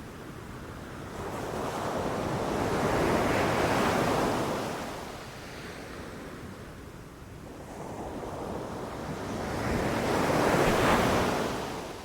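Ocean waves breaking on a beach, two waves swelling to a rush and falling away, about seven seconds apart, with some wind noise.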